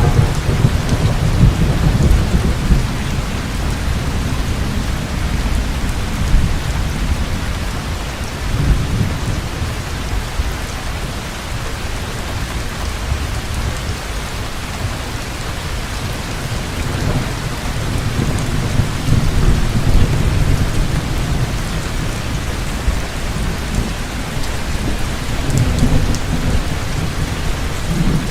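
Heavy rain falling steadily, with deep thunder rumbling that swells and fades several times.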